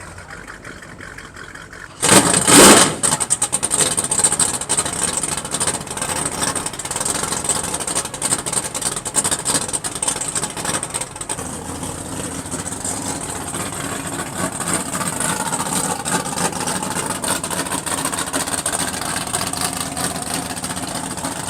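A car engine starts up with a sudden loud burst about two seconds in, then keeps running loudly.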